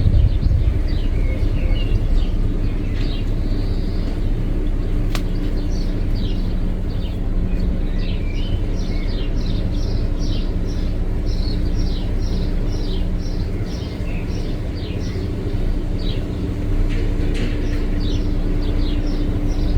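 Small songbirds chirping and twittering in quick runs of short notes, over a steady low rumble with a faint hum.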